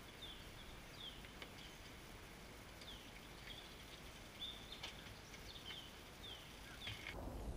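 Faint outdoor background with a bird calling over and over in short falling chirps, mixed with a few light clicks and knocks.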